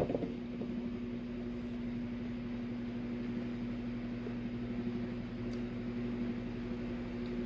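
A couple of knocks, then a steady electrical hum with a constant low tone starts up and runs on unchanged, like an appliance motor switched on.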